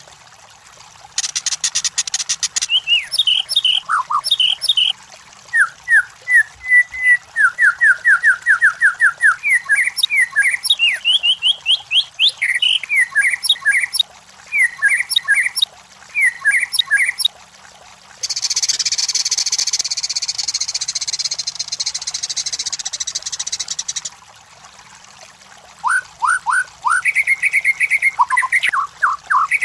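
White-rumped shama singing: a varied, loud song of clear whistled notes and quick runs of repeated, evenly spaced notes. It is broken by a brief harsh rasp about a second in and a long harsh hissing phrase of some six seconds about two-thirds of the way through.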